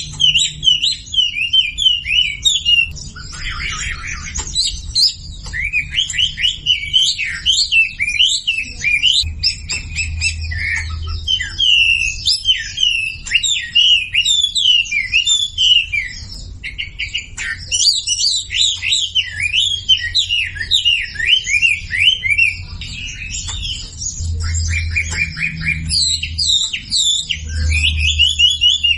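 Wambi songbirds singing a fast, almost unbroken stream of chirps and short sliding whistles, a masteran tutor recording meant to set silent caged wambi singing. A low hum sits under it throughout.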